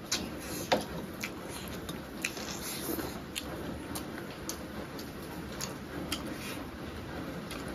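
Close-miked eating: chewing and biting chicken pieces (feet, gizzards, liver) with rice. Scattered sharp wet clicks and smacks run over a soft steady mouth noise, with one louder click under a second in.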